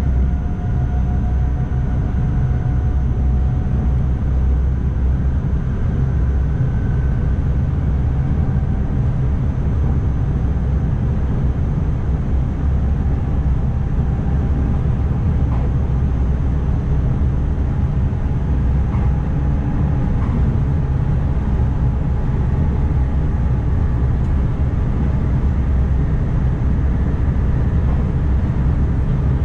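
Steady running rumble of an NS ICMm (Koploper) electric multiple unit under way, heard inside the driver's cab, with faint tones that drift slightly in pitch above it.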